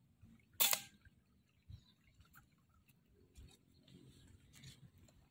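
A single air-rifle shot about half a second in: one short, sharp pop with a brief ring. Faint rustling and small clicks follow.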